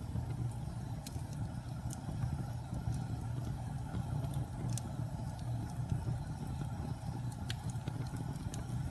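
Wood fire burning in a fireplace: a steady low rumble of flames with scattered sharp pops and crackles every second or two.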